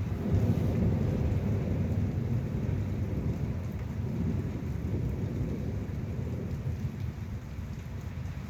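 Thunder rumbling, strongest about half a second in and then slowly fading, over steady rain.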